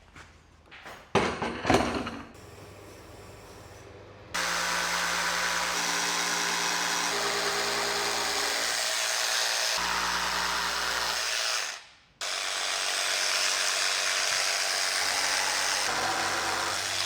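A few sharp knocks, then an electric power tool starts and runs steadily for several seconds. It stops briefly and starts up again.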